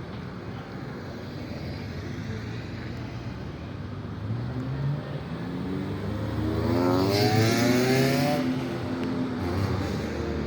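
Car engine revving as a car accelerates past, its pitch climbing from about four seconds in and loudest a little past the middle.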